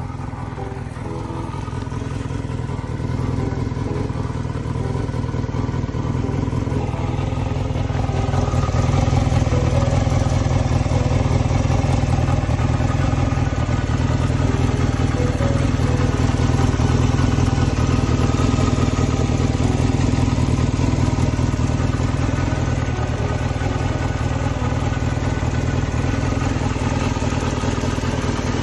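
Honda Jade 250 motorcycle's inline-four engine running, getting louder over the first several seconds and then holding steady.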